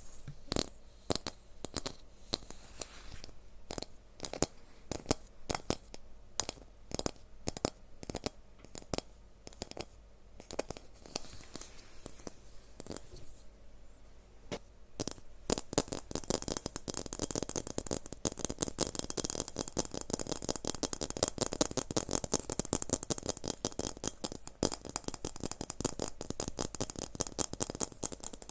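Close-miked ASMR trigger sounds: separate sharp clicks and taps for the first half, then a dense run of rapid crackling from about halfway on.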